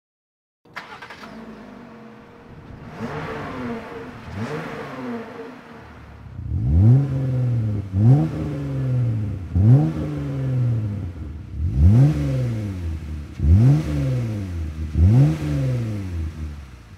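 2018 Jeep Wrangler JL's 3.6 L V6 through a Magnaflow Pro Series cat-back exhaust, being revved in place. Two light throttle blips come first, then six sharp revs, each rising quickly and falling back about every second and a half.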